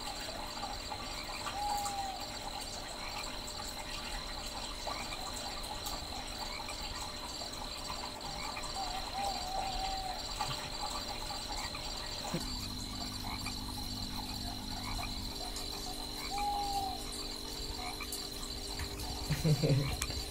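Night chorus of crickets trilling steadily, with a few short, lower calls from another creature now and then. A low steady hum joins about twelve seconds in.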